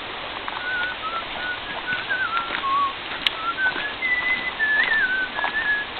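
A run of short whistled notes, a few a second, stepping up and down in pitch like a tune, over a steady rushing hiss.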